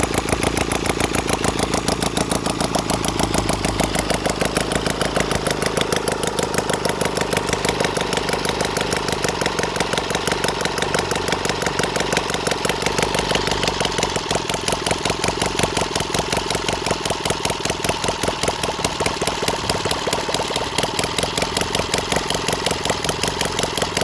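Valach VM 120 boxer engine running steadily with rapid, even firing pulses, freshly repaired and overhauled.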